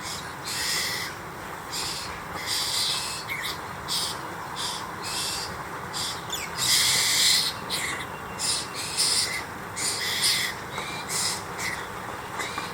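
Harsh, hissing calls of a young Asian koel being raised by mynas, repeated in short raspy bursts about every second, with a longer, louder burst near the middle.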